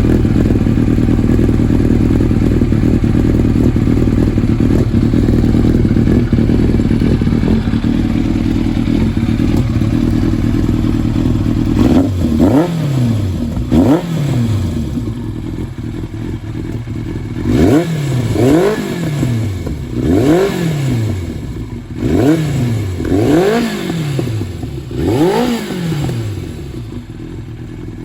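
Yamaha FZR1000 inline-four engine breathing through a BlackWidow aftermarket exhaust: it idles steadily, then about twelve seconds in is blipped repeatedly. Each quick rev rises and falls back, roughly one every second or two.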